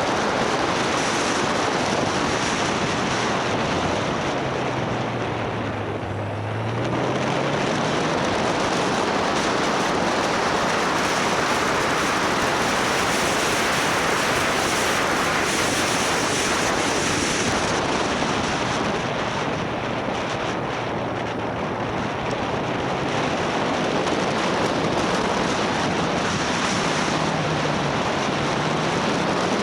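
Wind rushing over the microphone of a moving motorcycle, with the engine running faintly underneath. Its pitch dips and climbs back about six seconds in, and rises again near the end.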